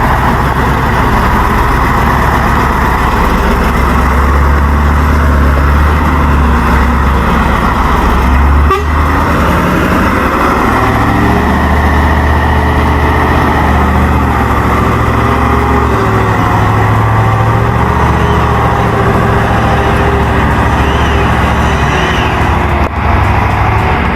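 Heavy truck engine running under load, its pitch shifting as it works, with brief breaks about nine seconds in and near the end.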